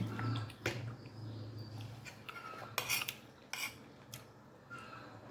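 Eating utensils clinking against a plate during a meal: a few sharp, scattered clicks.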